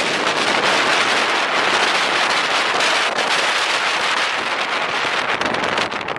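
Strong wind buffeting the camera's microphone, a loud continuous rush with crackling distortion.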